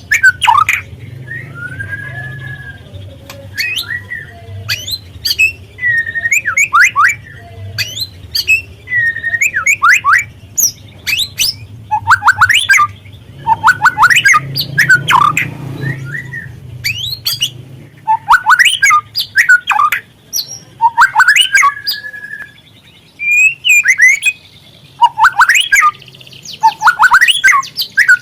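Young white-rumped shama (murai batu trotol) singing: phrases of fast rising and falling whistles and harsh chattering notes, a second or few long, with short pauses between them, over a faint low hum.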